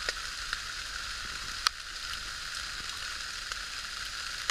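Campfire of oak on coals crackling, a steady hiss with scattered small pops and one sharper crack just under two seconds in.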